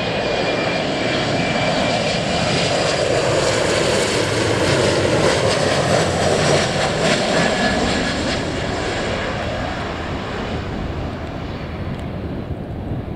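Airliner on landing approach passing low overhead: engine roar with a high whine, building to a peak around the middle, then fading away.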